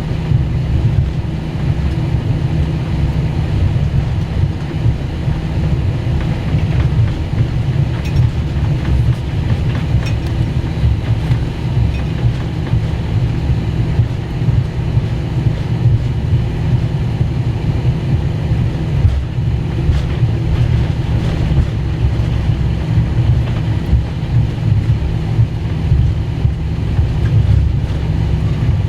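Steady low rumble of an Airbus A321 cabin, engine and airframe noise heard from the front row, with no change in pitch or level.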